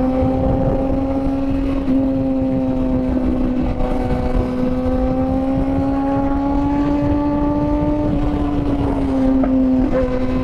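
Kawasaki ZX-6R's inline-four engine running at high, fairly steady revs while riding, its pitch creeping slowly upward, with small shifts in revs about two and four seconds in and a gentle easing off after about eight seconds. A low rumble of wind and road noise runs beneath it.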